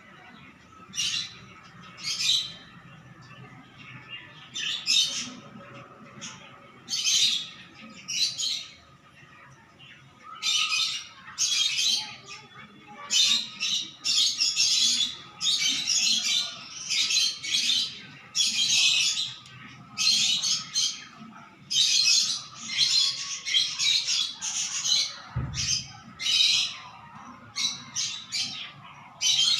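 Baby cockatiel giving repeated harsh, raspy calls, the begging cries of a hand-fed chick, spaced out at first and then coming in quick runs. A faint steady hum lies underneath.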